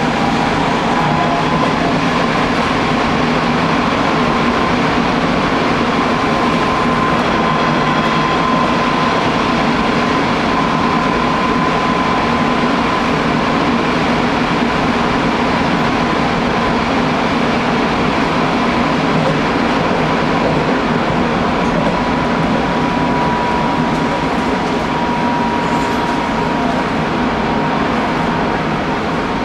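Hanshin Railway local electric train running at speed between stations, heard from inside the front car: steady rolling and rail noise with a thin high tone that rises a little early on, then holds and eases slightly.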